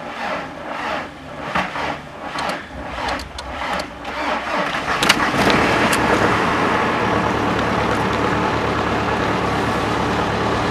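Volkswagen Golf III's 1.9 TDI four-cylinder diesel being cranked from a cold start at −10 °C after two weeks standing. The starter turns it over in pulses, about two a second, for roughly four seconds. About five seconds in the engine catches and settles into a steady, louder running.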